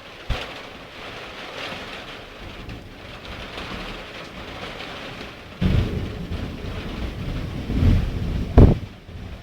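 Steady rain hissing, with a brief knock just after the start. About halfway through a loud deep rumble of thunder sets in and swells, with a sharp crack near the end before it fades.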